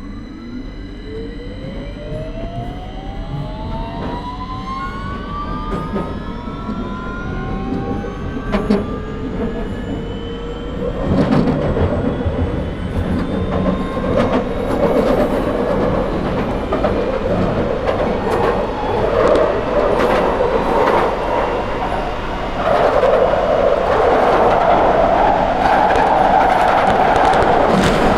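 Victoria line 2009 stock Tube train's traction motors whining in several rising tones as the train accelerates away. The wheel and running rumble then builds and grows louder, with a further jump in loudness about 23 seconds in.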